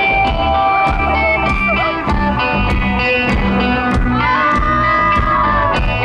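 Rock band playing live in an arena, loud and steady, with electric guitar over a regular drum beat and bass, as heard from the audience.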